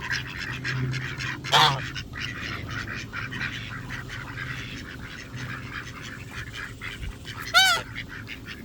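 A flock of domestic ducks being fed, calling. Two loud, short calls stand out, about a second and a half in and again near the end, over a steady patter of smaller sounds from the flock.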